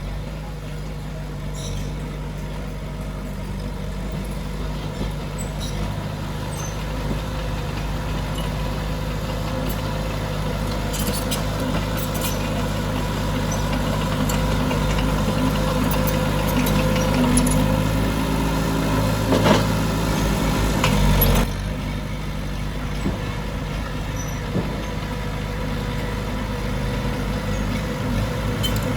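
Heavy diesel earthmoving machinery working. The engine drone builds steadily louder for about twenty seconds as if under load, then drops off suddenly, with a few brief clanks along the way.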